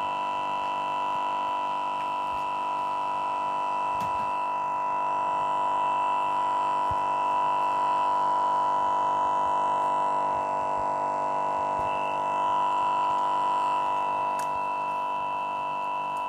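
Lenovo Yoga 2 11.6 laptop, frozen, giving out a loud, steady buzz of several held pitches at once. The buzz comes with the laptop locking up and not responding.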